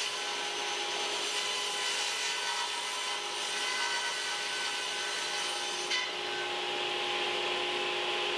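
Table saw ripping plywood to width: the blade runs steadily under load, with a constant whine over the cutting noise. There is a small click about six seconds in.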